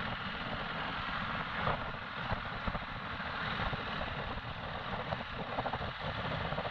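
Motorcycle under way on a rough road: steady engine and road noise.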